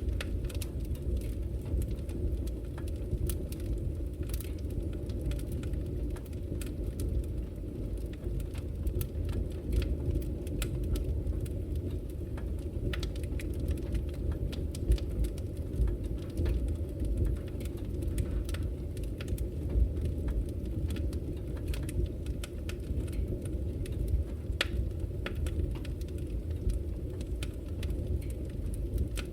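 Wood fire burning in a fireplace: a steady low rumble with many small crackles and pops scattered irregularly.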